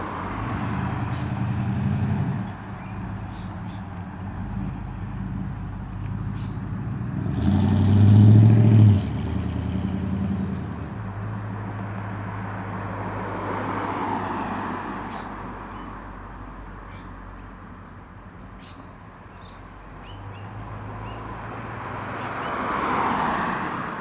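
Cars rolling slowly past, their engines running at low revs. The engine sound swells to its loudest about eight seconds in, then other cars pass more quietly.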